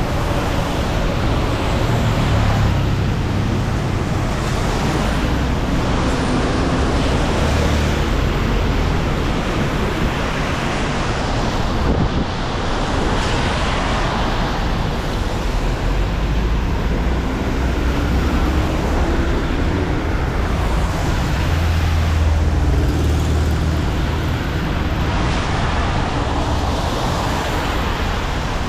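Busy city avenue traffic on wet pavement: a steady hiss of tyres with engine rumble swelling as vehicles pass, most strongly twice, a couple of seconds in and again past the middle.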